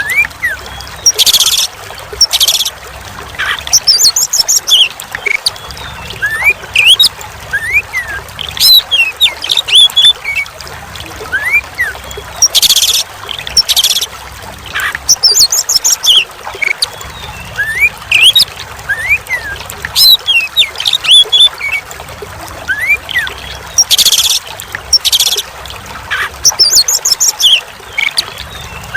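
Oriental magpie-robin (kacer) song: short rising whistles and chirps with paired harsh, scratchy calls, over continuous trickling water. The same sequence repeats about every 11 seconds, as a looped training recording.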